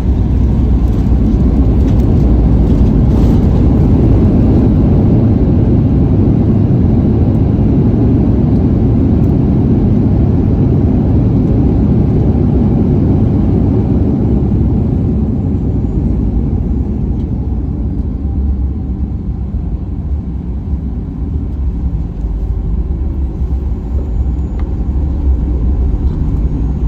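Cabin noise of a Boeing 737-800 rolling along the runway after landing: a loud, steady low rumble from the engines and the wheels on the runway, easing off after about fifteen seconds as the jet slows, with a faint falling whine partway through.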